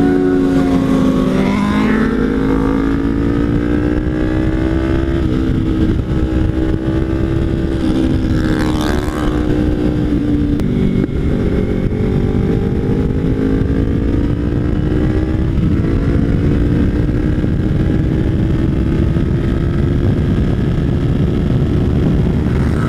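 Kawasaki Ninja 300 parallel-twin engine through a Hotbodies MGP Growler slip-on exhaust, running steadily while riding, its note rising and falling gently with throttle. Wind rush on a helmet-mounted microphone runs underneath.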